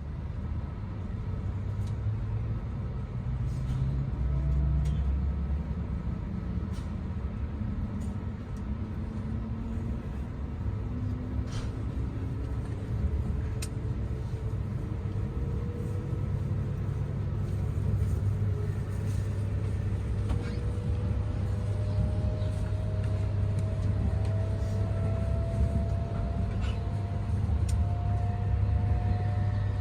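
Shinkansen E5/E6 series train heard from inside the passenger cabin, pulling away from a stop. A steady low rumble runs under the traction motors' whine, which rises slowly in pitch as the train gathers speed.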